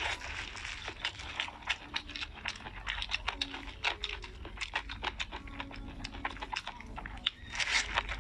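Close-miked chewing of a steamed dumpling topped with spicy dried radish pickle: a steady run of irregular, crisp crunches.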